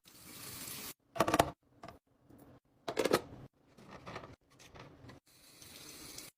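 Groceries and containers being handled and placed while a fridge is restocked: plastic packaging rustling and hard items clacking down, with two louder clatters about a second and three seconds in.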